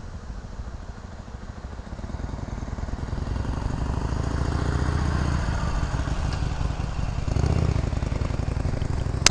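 A 2019 Harley-Davidson Sportster Iron 883's air-cooled V-twin engine running as the bike rides toward the microphone, growing louder over the first few seconds. About five and a half seconds in, the note breaks and picks up again, an upshift into second gear.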